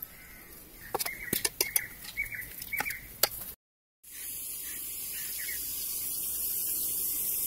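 Sharp clicks and clinks mixed with short chirping bird calls for a few seconds. After a brief dropout, a steady hiss that slowly grows louder.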